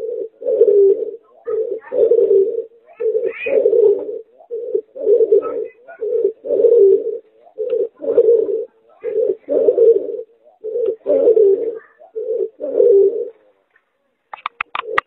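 Hybrid of a domestic pigeon and a dove (derkuku/tekukur) cooing: a steady series of low coos in short groups, which stops about two seconds before the end. A few sharp clicks follow.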